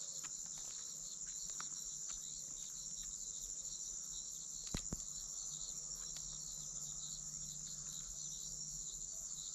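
Steady high-pitched insect chorus with a fine rapid pulsing, and one short click about five seconds in.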